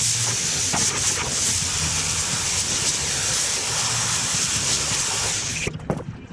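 A steady hiss of escaping air or spray that cuts off suddenly near the end, followed by a few light clicks.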